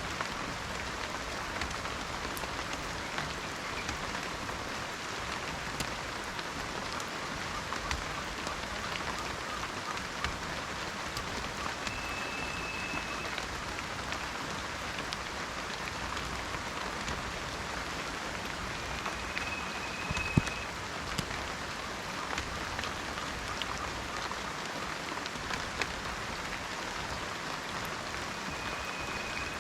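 Steady rain falling, with a dense patter of individual drops and now and then a louder single drip. A short, thin, high tone sounds three times, each about a second long.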